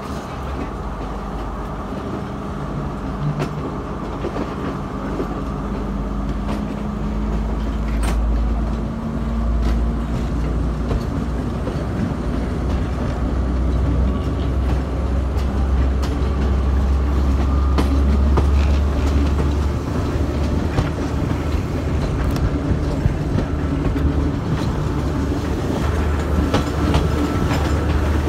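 Passenger train running, heard from aboard: a steady low rumble of the wheels on the rails with scattered sharp clacks over the rail joints.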